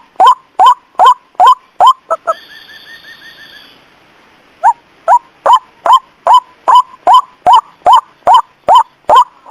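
White-breasted waterhen (ruak-ruak) calls from a bird-lure recording: short, loud rising notes repeated about two and a half times a second. About two seconds in they stop for roughly two seconds, while a fainter, higher wavering trill is heard, and then resume at the same pace.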